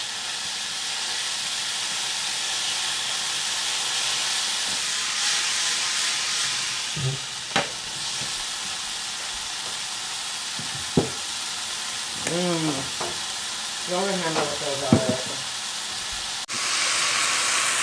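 Sliced dryad's saddle mushrooms sizzling steadily as they fry in olive oil in a pan, with a few sharp knocks along the way. The sizzle jumps suddenly louder about a second before the end.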